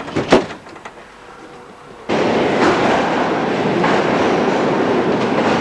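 A few sharp clicks, then, about two seconds in, a sudden loud, steady noise of a passenger rail car running along the track.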